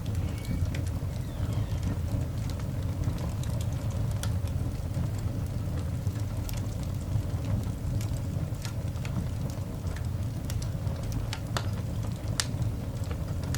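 Coal fire burning in a cast iron dog grate: irregular sharp snaps, crackles and pops over a steady low rumble.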